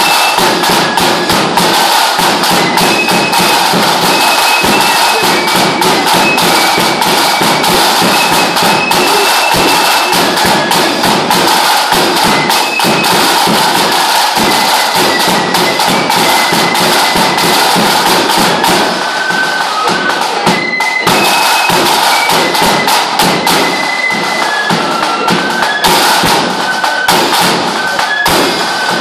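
Lambeg drums beaten with canes in a loud, rapid, unbroken roll, with a high wind instrument, likely a fife, playing a stepping melody over the drumming.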